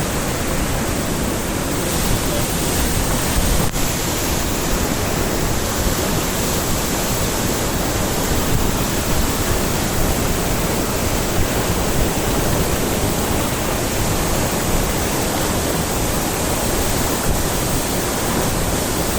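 Waterfall rushing, a steady, loud, even roar of falling water with a momentary dropout a little under four seconds in.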